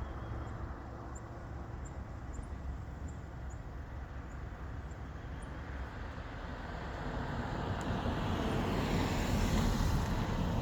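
A motor vehicle on the road, its engine and tyre noise growing louder over the last few seconds as it approaches.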